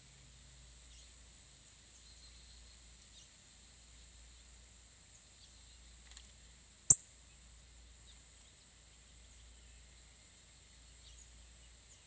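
Faint outdoor ambience with scattered brief distant bird chirps. A single sharp click about seven seconds in stands out as the loudest sound.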